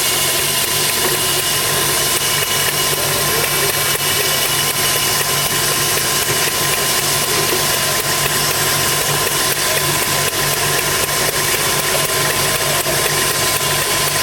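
An engine running steadily at idle, with an even hum and no change in speed.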